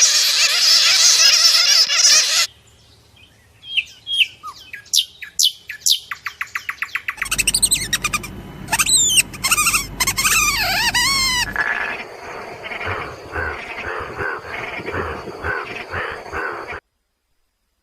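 Bird calls changing several times: a dense chatter, then quick separate chirps, then loud whistles sweeping down and up, then a run of evenly repeated calls, ending in a second of silence.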